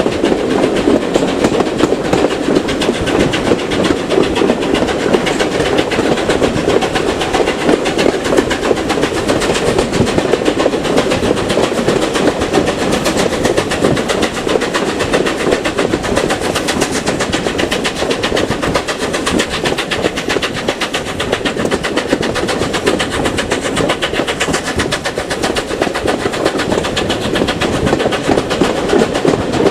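Train running on the track, loud and steady.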